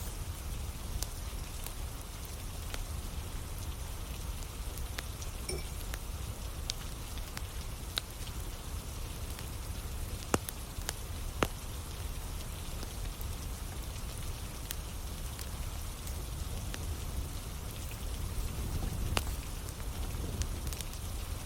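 Steady rain falling, with a wood campfire crackling: scattered sharp pops of burning wood, two louder ones about halfway through, over a low, even rumble.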